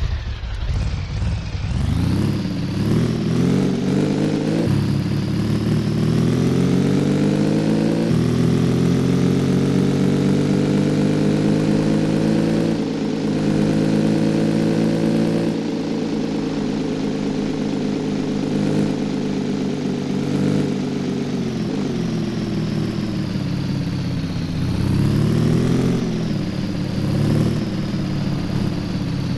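Cafe racer motorcycle engine pulling away and accelerating, its pitch climbing and then stepping down twice as it shifts up through the gears. It then runs steadily at cruising speed, slows, and gets a few short throttle blips near the end.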